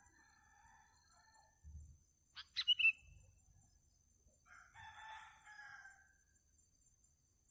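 A few short, sharp bird chirps about two and a half seconds in, the loudest sounds here, then a rooster crowing in the background for about a second.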